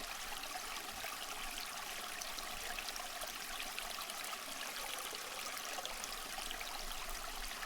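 Running stream water: a steady, light rush with many small splashes and trickles.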